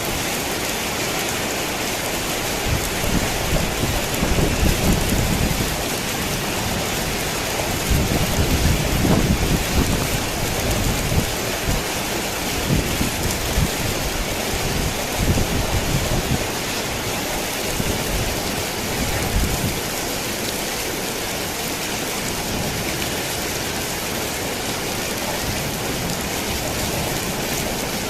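Steady heavy rain pattering on a tin roof, with thunder rumbling in several low rolls over the first two-thirds, then the rain alone.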